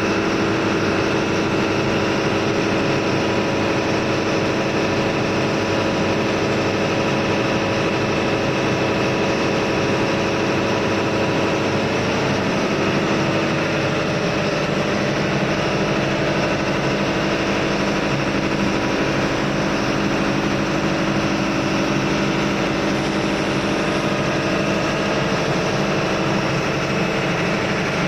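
Ship's engine-room machinery running steadily: a loud, continuous drone with several steady tones, shifting slightly about halfway through.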